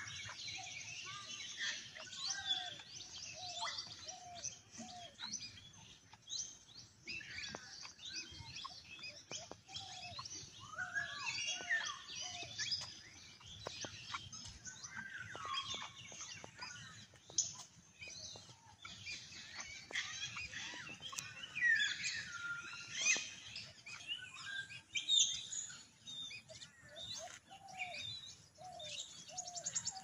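Several birds singing and chirping at once: a busy mix of overlapping high chirps and whistled glides, with short runs of a lower repeated note.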